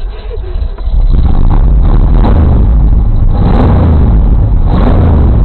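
Off-road 4x4's engine under hard throttle on a climb: a loud, steady low rumble that comes in about a second in, with rushes of noise over it.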